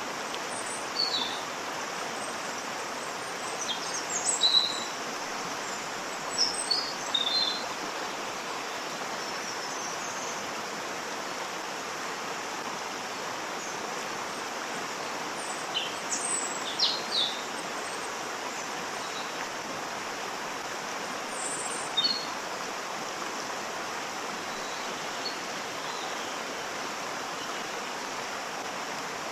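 Waterfall rushing steadily, with small birds chirping over it in several short bouts, busiest in the first eight seconds and again around the middle.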